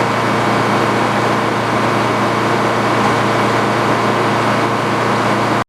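Engine of the sawmill's power unit running steadily with an even hum, stopping abruptly near the end.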